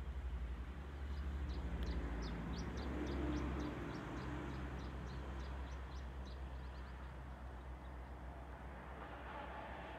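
A bird calling in a quick series of short, high chirps, about four a second, which stop a few seconds before the end, over a steady low rumble.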